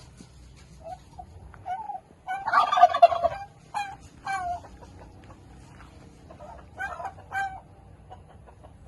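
Domestic turkey gobbling: a loud rattling call of about a second beginning a little over two seconds in, followed by several shorter calls.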